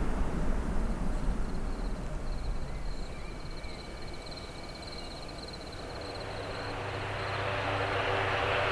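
Aircraft engine noise at an airport: a low rumble dies away over the first few seconds, then another aircraft's engines build steadily louder from about six seconds in, with a low hum under a rising rush.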